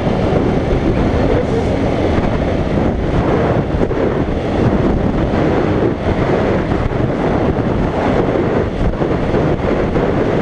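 Wind buffeting the microphone of a motorcycle-mounted GoPro at riding speed, over the steady running of the motorcycle engine.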